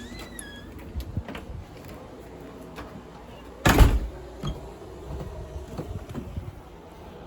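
A door being opened and shut: a short squeak at the start, a few light clicks, and a single heavy thump about four seconds in as it closes.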